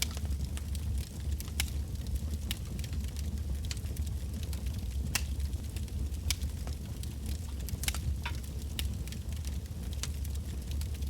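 Wood bonfire burning, logs crackling and popping with irregular sharp snaps, several a second, over a steady low rumble of the flames.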